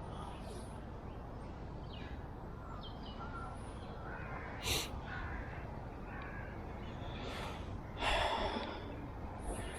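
Birds calling outdoors: a few harsh, caw-like calls, the loudest about eight seconds in, with fainter chirps between, over a steady low rumble.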